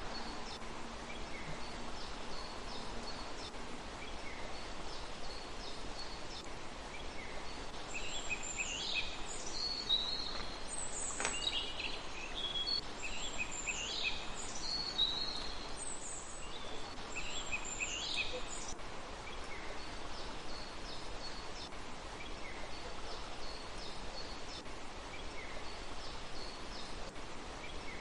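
Small birds calling in short, high, repeated chirps over a steady background hiss. The calls are faint at first, louder from about eight seconds in until about nineteen seconds, then faint again.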